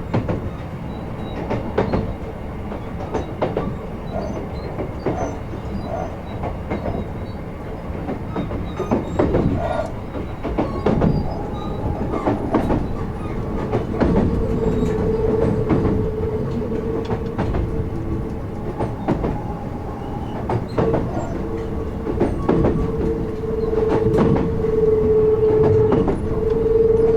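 Kintetsu 16600 series electric train running on jointed rail, heard from inside at the car end: the wheels clack over the rail joints. About halfway through a steady high tone joins in and holds, briefly dropping out once.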